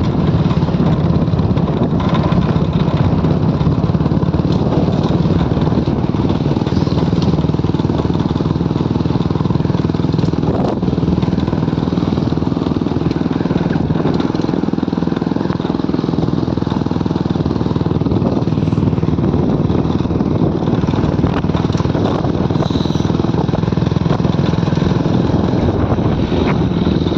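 Motorcycle engine running steadily while riding, with continuous road noise.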